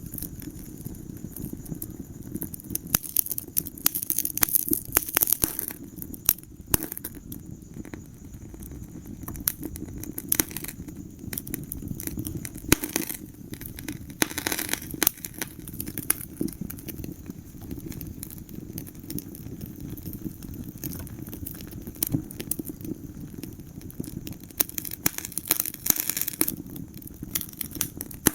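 Wood fire burning in a fireplace, crackling and popping irregularly over a low steady rumble of the flames, with busier runs of pops in places.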